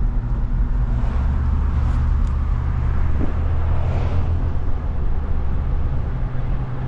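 A car driving along, its engine and tyres making a steady low rumble.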